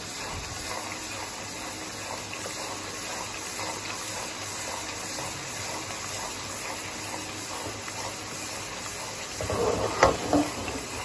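Spice masala sizzling steadily in ghee in a metal karahi as it is fried (bhuna) to cook off the raw chilli's water, stirred with a wooden spatula. Louder scraping and a sharp knock of the spatula on the pan near the end.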